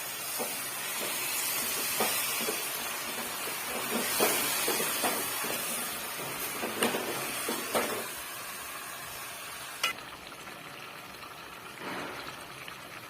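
Chicken and spices frying in a pan, sizzling as a cup of fresh yogurt is poured in and stirred. A spoon knocks against the pan every couple of seconds, and the sizzle dies down about ten seconds in.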